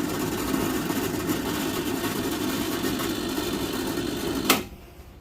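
Espresso machine flushing water through its group head: the pump runs with a steady hum and water rushing, then cuts off with a sharp click about four and a half seconds in.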